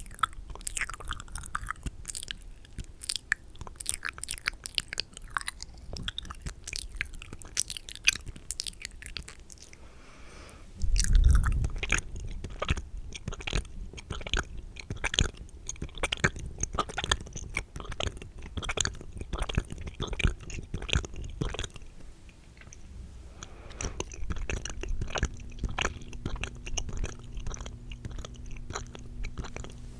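Close-miked wet, spitty mouth sounds: rapid clicks and smacks. A louder low rumble comes about a third of the way in.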